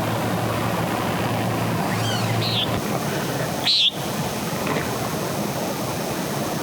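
Steady rushing of a small creek, with a low hum that stops about three seconds in. Short high chirping calls from an animal in the woods come twice, and a brief bump sounds just before the second call.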